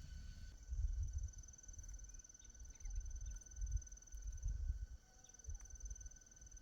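A steady, high-pitched insect trill, breaking off briefly past the middle, over repeated low rumbles.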